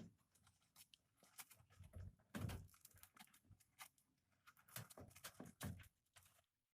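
Faint, scattered clicks and soft knocks of handling, the loudest about two and a half seconds in.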